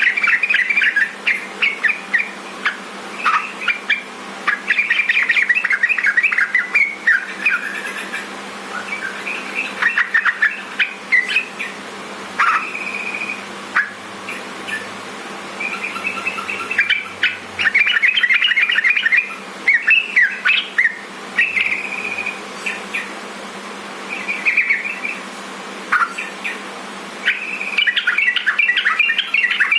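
Yellow-vented bulbul (trucukan) song: bursts of quick, bubbly chattering phrases repeated with short pauses, over a faint steady hum. This is the active song used as a master recording to call trucukan and set a kept bird singing.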